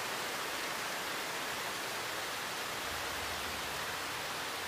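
Heavy rain falling steadily on trees and grass, a constant even hiss.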